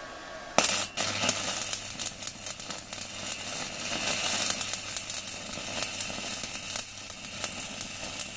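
Stick-welding arc from a 4 mm UONI electrode on a small inverter welder set to 160 A. The arc strikes about half a second in and then burns steadily with a dense, irregular crackle.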